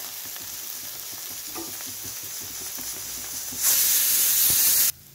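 Chopped onions and tomatoes frying in oil in a nonstick pan, sizzling steadily with small crackles and spatula strokes. Near the end a much louder hiss rises for about a second, then cuts off suddenly.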